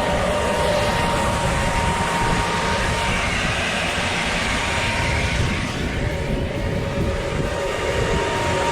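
Tractor engine running steadily at a standstill, a low rumble with a constant whine.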